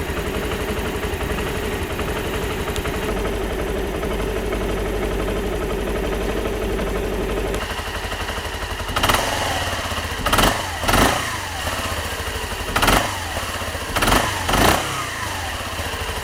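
Suzuki Skywave 250 Type M scooter's single-cylinder 250 cc four-stroke engine idling steadily, then revved in six short throttle blips, each rising and falling back to idle, starting about nine seconds in.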